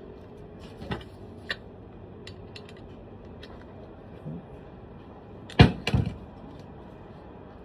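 Small metal clicks and clinks of hex keys being handled and tried in the grinder's guard screw, with two sharp knocks close together about five and a half seconds in.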